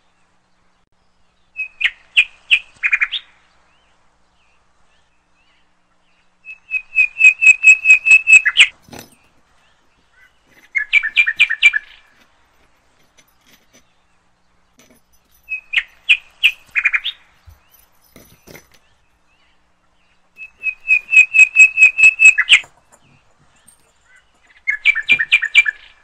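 Bird chirping in loud runs of rapid, evenly spaced chirps, about six a second, six runs with silence between; the same pattern of runs comes round again after about fourteen seconds, like a looped recording.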